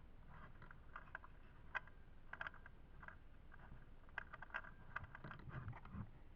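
Faint, irregular clicks and crackles, some in quick clusters, with a few soft low thuds near the end.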